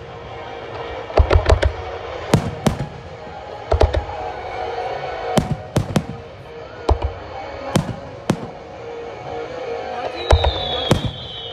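Aerial firework shells bursting: an irregular run of sharp bangs, some coming in quick clusters of two to four. A high whistle falling in pitch starts near the end.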